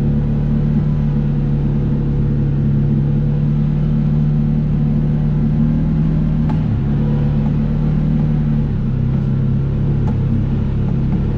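A vehicle engine running steadily under way, heard from on board, over a low road rumble; the engine note drops slightly near the end.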